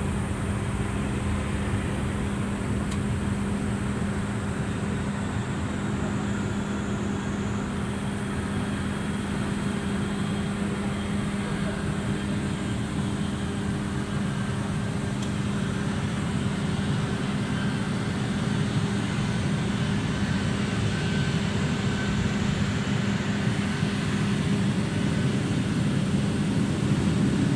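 Airbus A321neo's Pratt & Whitney geared turbofan engines running with a steady low hum and rushing noise that grows louder towards the end.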